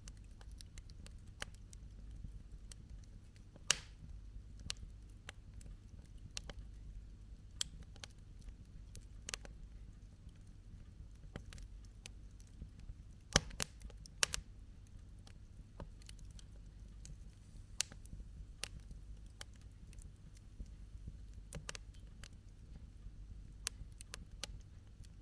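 Wood campfire crackling: irregular sharp pops and snaps of burning wood over a low steady rumble. The loudest pops come about four seconds in and again around thirteen to fourteen seconds in.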